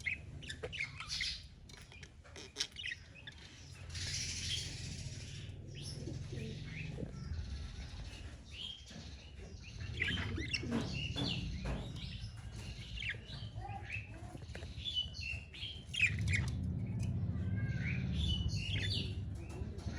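Budgies (parakeets) chirping and warbling in a cage: a busy run of short, quick chirps and twittering notes, several birds calling over one another.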